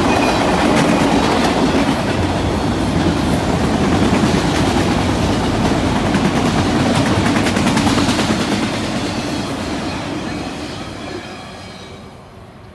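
Freight train of enclosed autorack cars rolling past, with a steady rumble and the clickety-clack of wheels over rail joints. About eight seconds in the sound starts to fade steadily as the end of the train pulls away.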